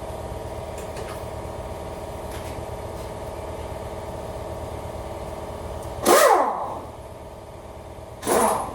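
A steady mechanical hum, broken twice by short loud bursts of a power tool about two seconds apart; the first winds down in pitch as it stops.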